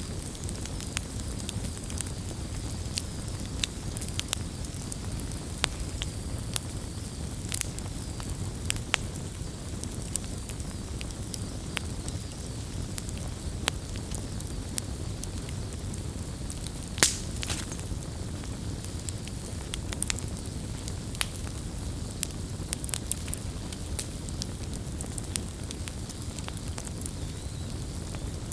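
Campfire burning: a steady low rumble of flame with irregular sharp crackles and pops of burning wood, one louder pop about two-thirds of the way through.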